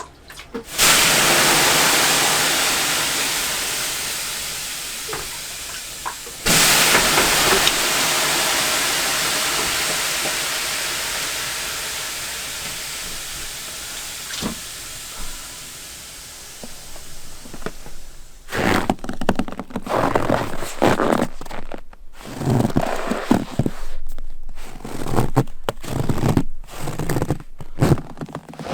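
Water thrown twice onto hot sauna stones: each ladleful sets off a sudden loud steam hiss that fades slowly over several seconds. From about two-thirds of the way through, irregular rustling and knocks follow.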